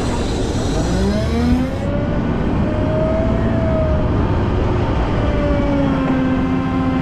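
Volvo L90F wheel loader's diesel engine working, its pitch rising about a second in, then easing and holding steady as the revs change. A high hiss cuts out about two seconds in.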